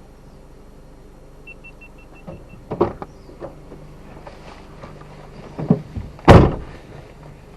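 A vehicle's engine idling with a steady low hum. Several clunks and knocks come from handling around the vehicle, the loudest about six seconds in, and a quick run of about seven short high beeps sounds about one and a half seconds in.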